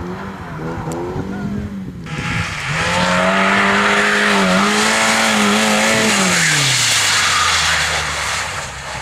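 A competition car's engine revving hard as the car drives close past, with a loud rush of tyre noise from about two seconds in to near the end. The engine note holds high, then drops away as the car lifts off.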